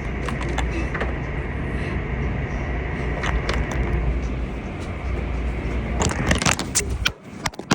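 Automatic car wash machinery running: a steady wash noise with a low hum and a faint high tone, with several knocks about six to seven seconds in. The low hum cuts off suddenly about seven seconds in.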